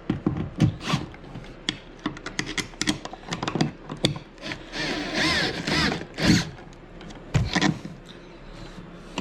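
Hand tools and mounting hardware being worked: a quick series of clicks and knocks of metal parts, with a longer scraping stretch about halfway through.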